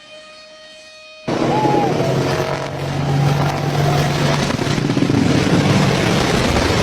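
Helicopter engine and rotor noise that comes in loud and abruptly about a second in, with a steady low hum under a dense rushing noise.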